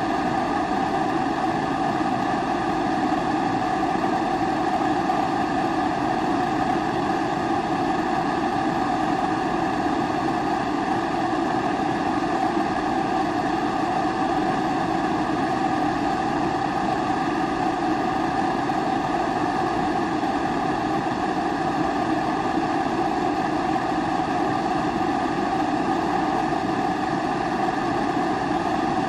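Pressurised kerosene stove (Primus-type babour) burning with a steady, even rushing flame noise.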